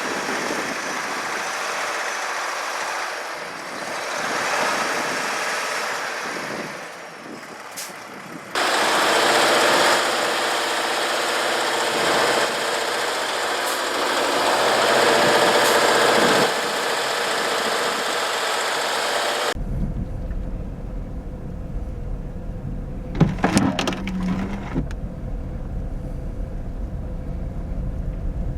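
Vehicle and road noise in three abruptly cut segments. The first two are a steady hiss, the second louder and with a faint engine hum. The last is a heavy low rumble with a short burst of clatter in its middle.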